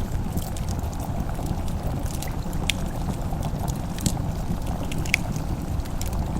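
Fireplace fire crackling: a steady low rumble with scattered sharp pops and snaps.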